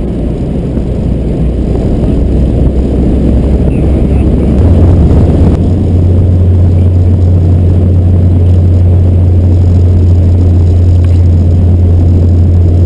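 Fiat Barchetta's 1.8-litre four-cylinder engine droning steadily as the car drives along, under rough wind rumble on the microphone; the engine note steps up in pitch about five seconds in.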